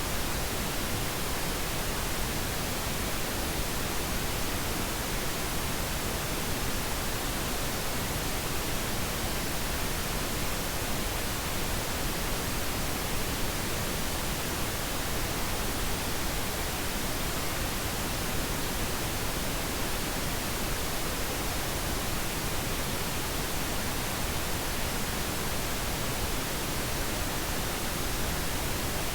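Steady pink noise: an even, unchanging hiss across all pitches, played continuously as a sleep aid.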